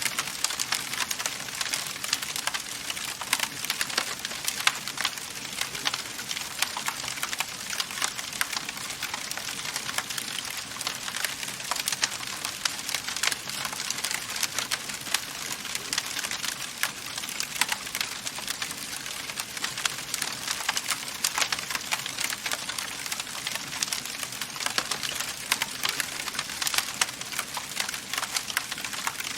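Wood fire crackling in a fireplace: a steady hiss with dense, irregular sharp pops and snaps from the burning logs.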